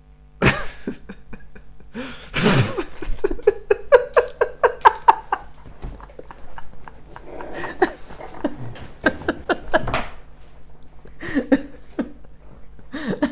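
People laughing in short rhythmic bursts, among a run of sharp clicks and knocks.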